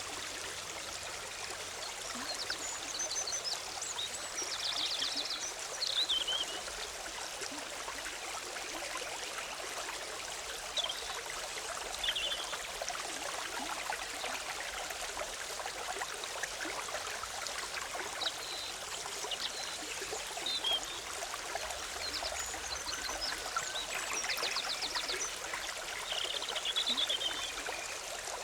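A forest stream bubbling and trickling over rocks, with small birds chirping and trilling in short calls several times.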